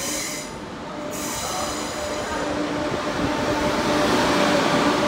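A train moving through the station, its rumble growing louder from about halfway in, with a steady whine underneath.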